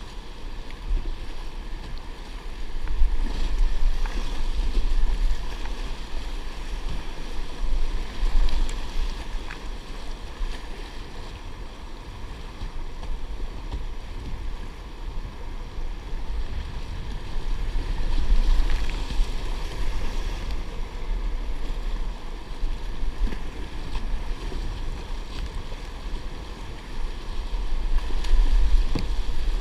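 Wind buffeting the microphone in gusts, a deep rumble that swells and fades several times, over a steady wash of water noise around a kayak.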